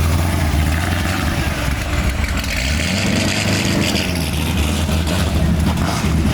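A car engine running with a steady low rumble, its pitch shifting slightly partway through.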